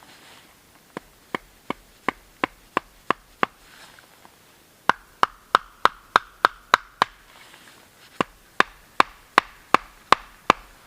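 Rapid blows of a carving tool chopping into wood, as when roughing out a wooden kuksa cup. The blows come in three runs of about seven, roughly three a second, each a sharp knock with a short ring.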